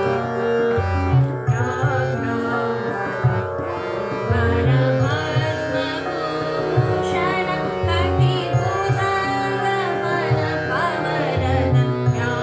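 Indian classical vocal music: a dhrupad composition in raga Purvi sung with gliding, ornamented phrases over a steady drone, with hand-drum strokes keeping sool taal.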